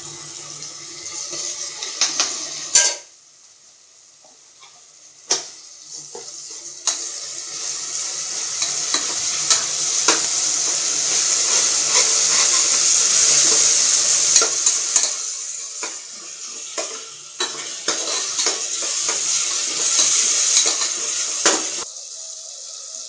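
Sliced onions and tomatoes sizzling in oil in an aluminium pressure cooker. A steel spoon stirs them, scraping and clicking against the pot. The sizzling drops away briefly a few seconds in, then grows steadily louder, and stops suddenly near the end.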